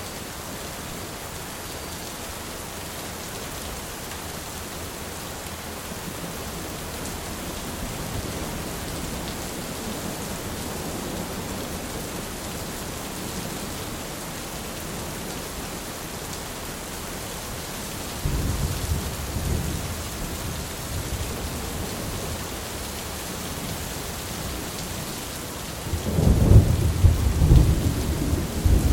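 Steady rain with thunder: a low rumble breaks in about two-thirds of the way through, and a louder, heavier peal of thunder comes near the end.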